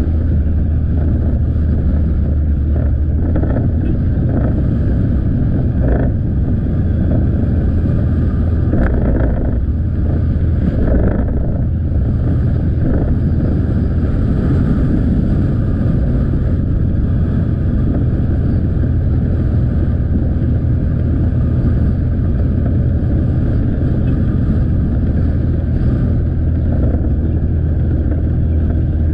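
Motorcycle engine running at a steady riding pace, with wind and road noise on the microphone.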